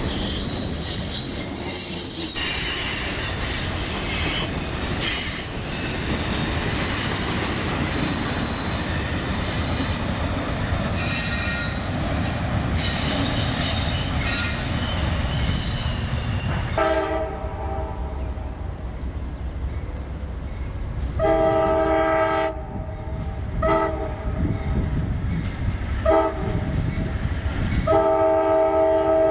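A train rolling past, its wheels squealing in high-pitched tones over the rumble of the cars. About halfway through, a locomotive horn sounds its chord in several blasts, some long and some short.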